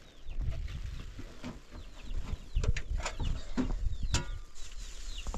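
Birds chirping in many short, repeated falling chirps, over a low rumble with several sharp knocks, the loudest of them about three to four seconds in.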